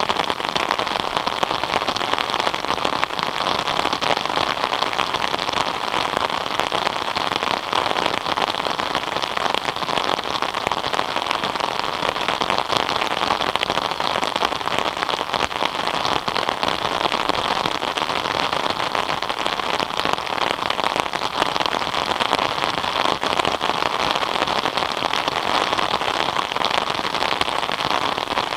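Steady rain falling on a surface, a dense even patter of countless drops with no let-up.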